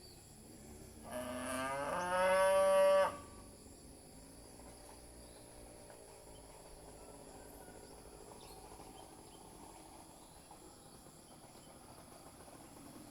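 A cow mooing once, a single call of about two seconds that rises in pitch and then holds louder before stopping. A steady high insect hum runs underneath.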